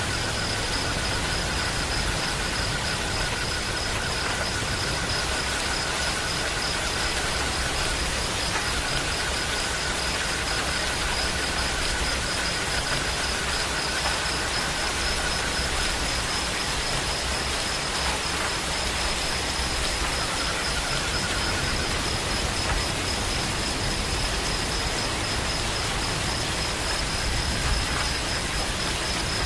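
Steady rain falling, an even hiss, with insects trilling at two pitches: a high trill that goes on throughout and a lower one that stops a little past halfway and comes back briefly a few seconds later.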